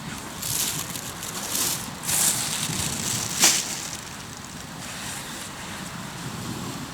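Hardwood campfire burning in a fire stand, crackling, with a sharp pop about halfway through.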